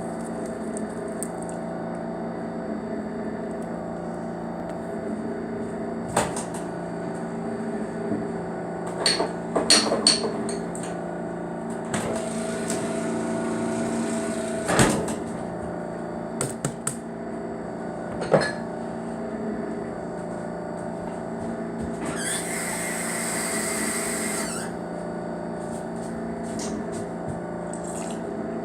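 A steady mechanical hum with several tones, under scattered clicks and squishes typical of slime being poked and pressed. A hiss lasts about two seconds, starting about two-thirds of the way in.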